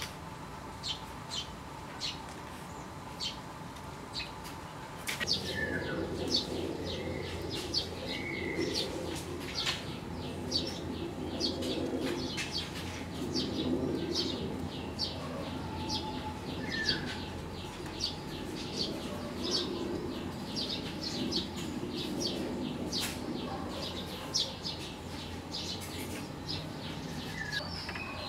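Small birds chirping in quick, short, high notes repeated throughout. From about five seconds in, a lower, patchy sound recurs beneath them every second or two.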